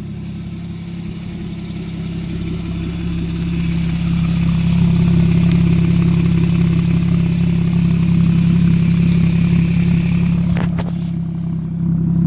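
2014 Porsche 911's flat-six engine running at a steady idle with a slightly aggressive exhaust note, getting louder over the first few seconds and then holding even. A couple of sharp clicks come about ten seconds in.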